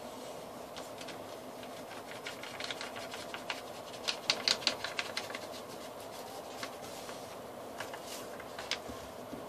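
Sheet of paper being handled and worked by hand: crisp paper crackles and taps, densest and loudest about four to five seconds in, over a steady background hum.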